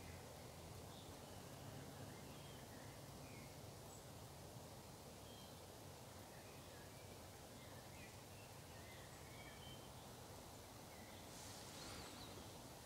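Near silence: faint woodland ambience with scattered, distant bird chirps, and a brief soft noise near the end.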